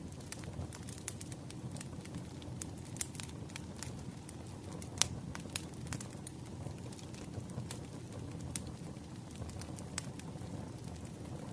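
Wood fire crackling: irregular sharp pops and snaps over a low steady rumble of burning logs, the loudest pop about five seconds in.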